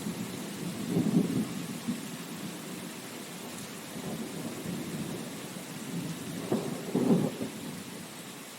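Steady rain hiss with low rumbles swelling up about a second in and again about seven seconds in, then dying away.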